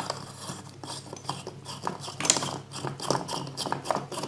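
Irregular small clicks, rubbing and scraping of an LED bulb being handled and fitted to a test lamp socket and power plug.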